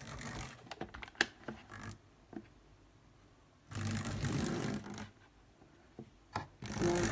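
Triang 0-4-0 model locomotive running on 00-gauge track in stops and starts: three stretches of motor and wheel clatter with sharp clicks between, its running made stuttery by dirty wheels.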